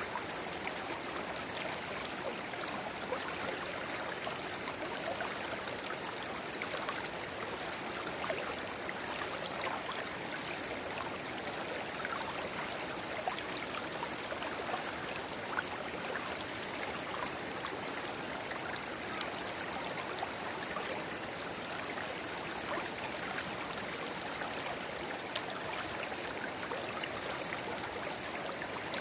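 A shallow river's running water babbling steadily, with a small spring-fed rivulet pouring into it. Small splashes flicker through the even rush.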